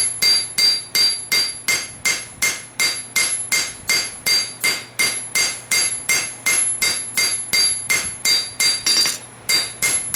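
Hand hammer striking a hot steel blade blank on an anvil in steady blows, about three a second, each with a bright metallic ring, over a faint steady hum. This is the drawing-out stage of forging a blade from a farrier rasp.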